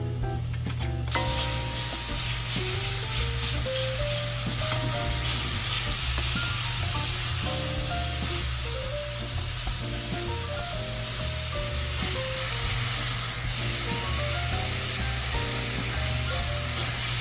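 Food frying in hot oil: a steady sizzle that starts suddenly about a second in, over light background music.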